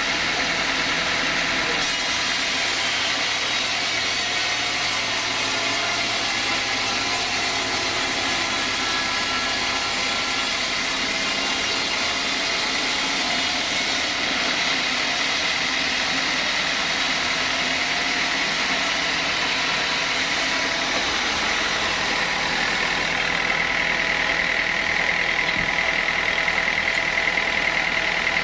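Sawmill saw running steadily as it cuts teak, with several steady machine tones; a louder, higher whine comes in near the end.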